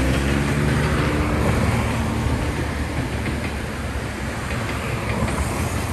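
Heritage diesel railcar DR2102 running on the track: its engine hum drops in pitch in the first second, giving way to a steady rumble of wheels on rail with occasional clicks of rail joints.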